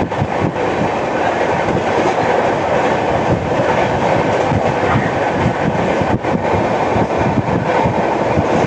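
Coaches of an express passenger train running at speed on the rails: a loud, steady rumble and rattle with a dense stream of short wheel knocks. The uploader presents the knocking as the sound of a flat wheel.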